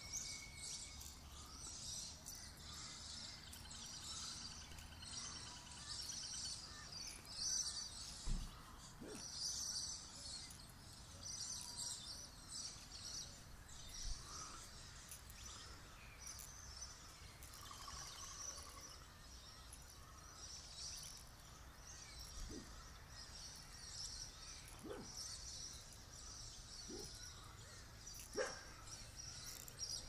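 Many birds chirping and calling at once, high short chirps that go on continually over a low steady background hum, with a few brief knocks.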